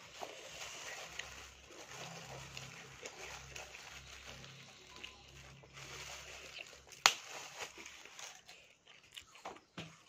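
Close-up eating sounds: wet chewing and mouth noises of someone eating spicy fried grasshoppers with rice by hand, with small clicks of fingers picking at the plate and one sharp click about seven seconds in.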